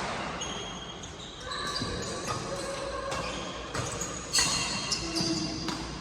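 Badminton rally: a string of sharp racket hits on the shuttlecock, about one every half-second to a second, mixed with short high squeaks of shoes on the court floor.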